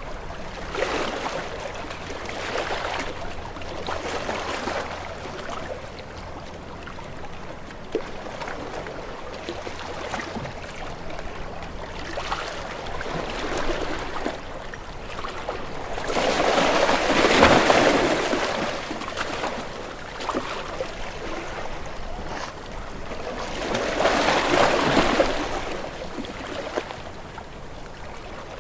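Waves washing in and drawing back in a continuous rolling wash. Two bigger waves swell and break, one just past the middle and another near the end.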